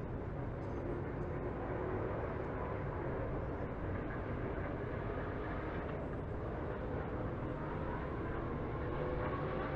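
NASCAR Truck Series race trucks' V8 engines running together in a steady drone, with a faint engine note that rises slightly near the end.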